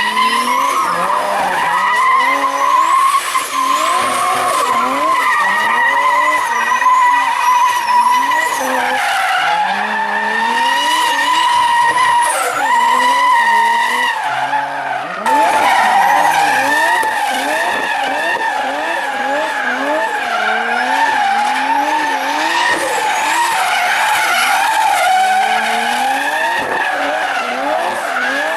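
Toyota Supra Mk4 drifting: tyres squealing in a steady high screech while the 2JZ inline-six engine revs up and falls back again and again. The sound changes abruptly about halfway through.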